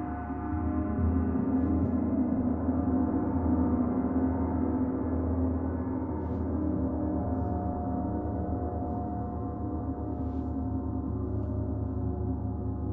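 Gong played in a sound bath: a sustained wash of many overlapping ringing tones that swells over the first few seconds and then eases slightly while still sounding.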